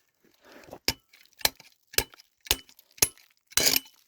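Pieces of scrap iron clinking and knocking together as they are handled: six sharp metallic clinks about half a second apart, some with a short ringing, the last one longer and harsher.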